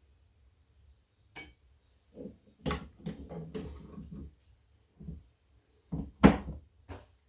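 Kitchen handling sounds: a series of knocks and clatters, as of pans, dishes or a cupboard. The loudest is a sharp bang a little after six seconds in.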